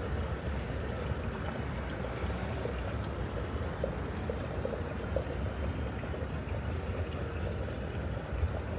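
Steady rushing noise over a low rumble, unchanging throughout.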